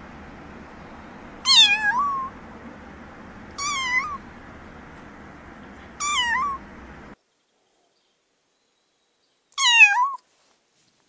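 Domestic cat meowing four times, short meows about two seconds apart, the last coming after a pause of a couple of seconds. A faint steady background hiss sits under the first three.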